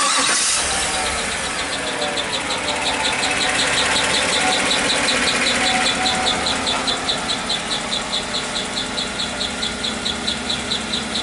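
2016 Chevy Suburban's 5.3-litre V8 starting and running, with a regular rapid ticking knock several times a second coming from the rear of the engine. The engine has been running low on oil and is showing low, fluctuating oil pressure; the mechanic takes the noise for a possible sign of internal engine wear from lack of oil.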